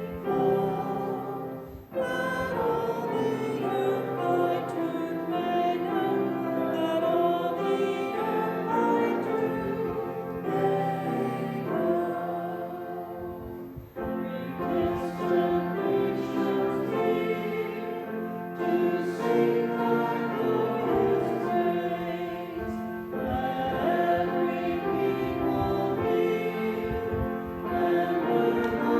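Church congregation singing a hymn together with piano accompaniment, in long phrases with brief breaks between lines.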